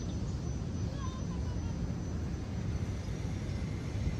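Steady low rumble of Indian Ocean surf, with a faint thin high tone running throughout.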